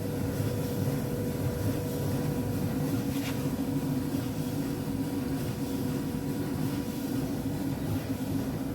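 Alliance Speed Queen commercial clothes dryer running steadily, drum turning with a steady hum and no abnormal noise, after replacing its damaged drum idler pulley and drum bearing slide kit.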